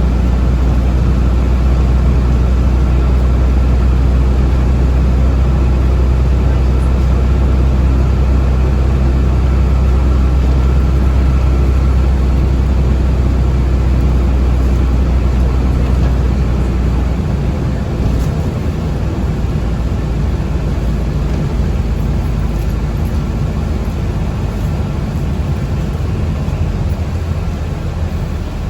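Cabin noise inside a moving city public-transport vehicle: a steady low rumble with a faint high whine. The rumble and whine drop away about two-thirds of the way through, leaving a lighter running noise.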